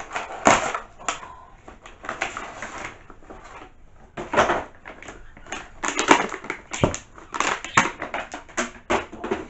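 Gift packaging being handled and opened: irregular crinkling, rustling and scraping, with sharp crackles clustered in the second half.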